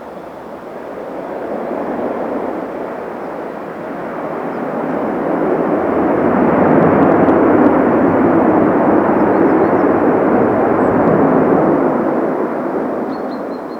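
Jet airliner landing: engine noise rises, holds at its loudest through the middle for several seconds, then fades away near the end.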